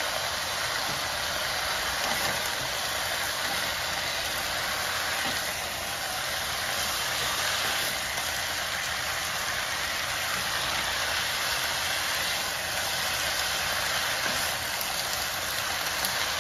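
Stir-fry of vegetables and sliced grouse sizzling steadily in a frying pan over high heat, an even hiss.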